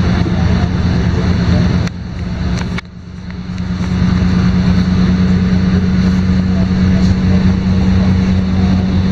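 LiAZ-5292 city bus heard from inside the cabin, its diesel engine and drivetrain running under way with a steady hum. About two seconds in, two clicks come and the sound drops sharply. It then builds back up over about a second.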